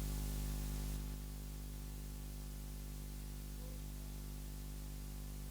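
Steady low electrical hum with a line of overtones under a faint hiss, the background noise of the recording or sound system; it drops slightly about a second in.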